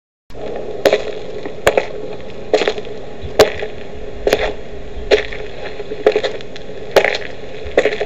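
Footsteps at a slow, even walking pace: nine sharp taps about one a second, over a faint steady hiss.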